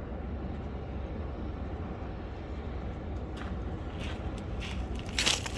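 Lamborghini Aventador S Roadster's V12 idling steadily as it warms up after a cold start. A few sharp knocks come in the second half, then a louder brief clatter near the end.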